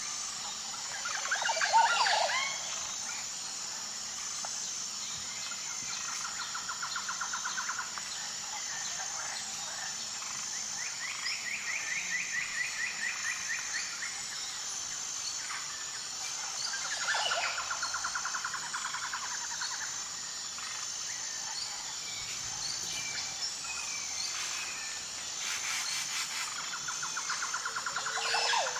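Birds singing: several rapid trilled phrases of about two seconds each, some opening with a loud downward-sweeping note, over a steady high pulsing buzz.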